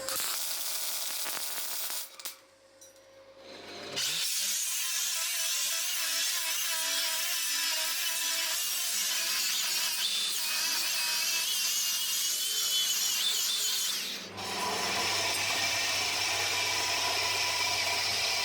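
Power tools running and working material in a series of short clips: steady grinding or cutting noise, broken by a brief quieter gap about two seconds in and a change to a different tool with a steady low hum about fourteen seconds in.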